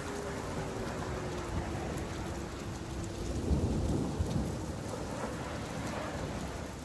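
Steady rain falling, with a low roll of thunder rising about halfway through.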